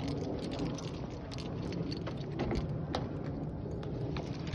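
Car keys jangling and clinking in hand, over a steady low rumble.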